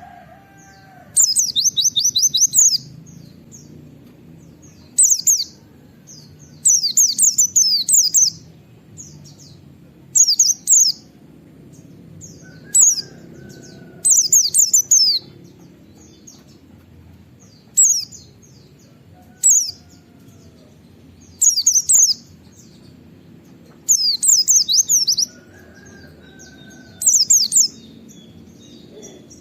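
White-eye (pleci) singing in short bursts of rapid, steeply falling high-pitched notes, about a dozen bursts a second or two apart: the fast 'nembak wit wit' song.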